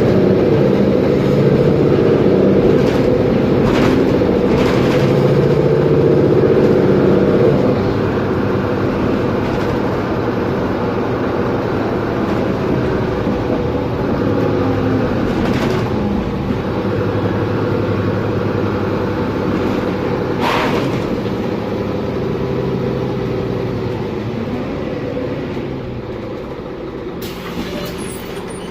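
Mercedes-Benz Conecto G articulated bus's OM457LA turbo-diesel straight-six running under load, heard from inside the bus, with rattles and knocks from loose interior parts and the whine of the rear-axle differential. The engine is loudest for the first several seconds, then drops about eight seconds in and slowly fades as the bus eases off.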